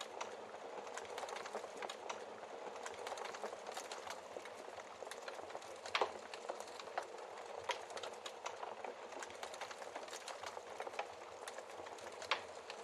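Wood fire crackling steadily with many small snaps, and louder pops about six seconds in and again near the end.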